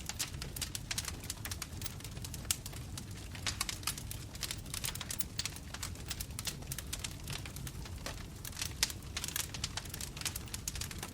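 Bonfire crackling, with many irregular sharp pops and snaps over a steady low rumble of the flames.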